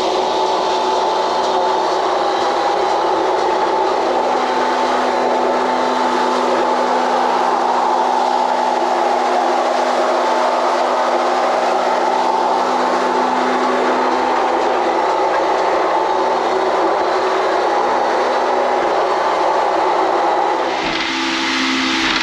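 A small boat's engine running steadily under way, with a rush of wind and water over it. Near the end the engine note shifts and the rush changes.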